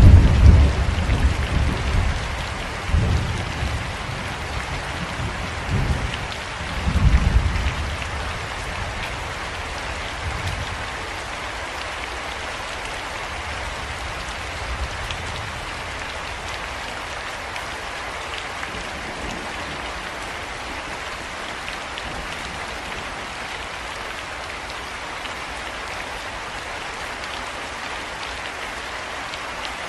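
Steady rain falling, with low rolls of thunder that rumble loudest right at the start and again a few times over the next several seconds, then die away, leaving the even hiss of the rain.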